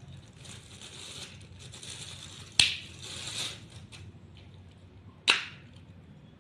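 Two sharp clicks about two and a half seconds apart, each fading quickly, with soft rustling handling noise before and around the first.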